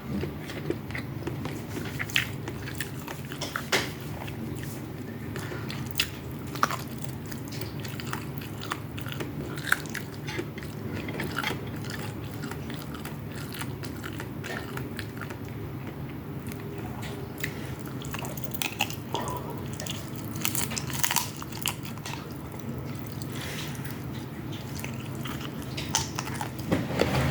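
Close-miked chewing and biting of fried rice with chicken and vegetables, with scattered short crunches and clicks over a steady low hum.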